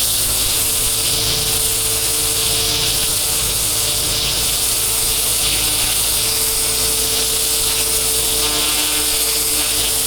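Pressure washer running: the steady, high-pitched hiss of the water jet spraying, with a steady machine hum underneath.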